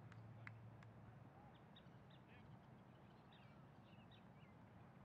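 Near silence outdoors, with scattered faint bird chirps and a few faint clicks in the first second.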